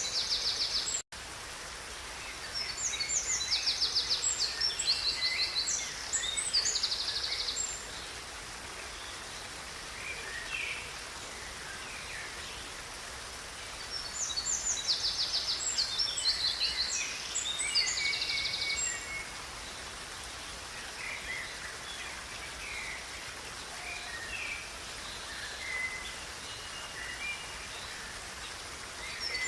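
River water running steadily, with songbirds singing over it: two long phrases of rapid trills and chirps, and quieter scattered calls between them. The sound cuts out for an instant about a second in.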